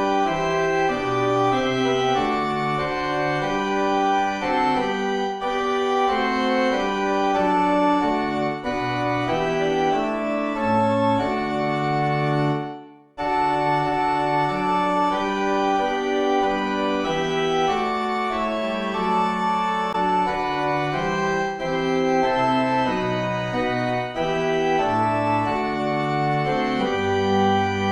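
Church organ playing a slow tune in sustained, stepwise-changing chords, with a brief break about halfway through and a final chord held near the end.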